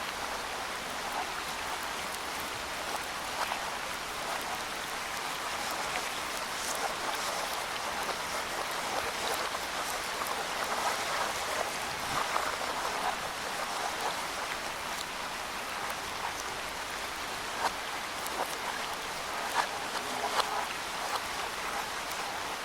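Steady rain falling in woodland, an even hiss with scattered louder drops ticking irregularly.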